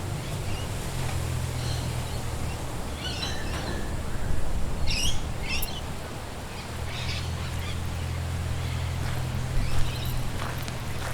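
Woodland birds giving short chirping calls, several clusters through the middle, over a steady background hiss of wind. A steady low hum fades out about a third of the way in and comes back about two-thirds through.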